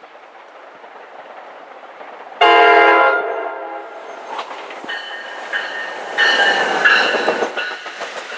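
NJ Transit multilevel commuter train: a single loud horn blast lasting about a second and a half, then the rumble of the train growing as it rolls past the platform, with intermittent high-pitched squeals.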